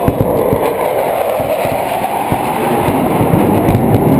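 Jet aircraft flyover: a loud, steady rumble that swells slightly near the end, following a whine that drops in pitch as the jets pass overhead.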